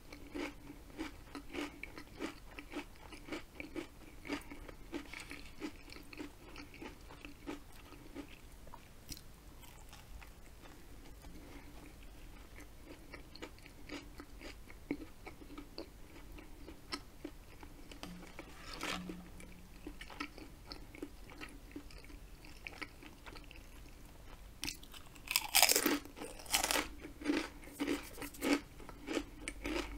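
Close-miked mouth sounds of someone chewing a sandwich: soft wet chewing with many small clicks and crackles. About 25 seconds in comes a louder burst of crunching as a potato chip is bitten.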